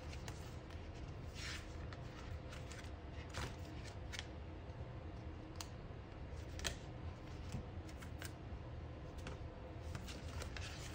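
Paper and sticker sheets being handled on a desk: scattered light rustles, taps and small clicks, a few seconds apart.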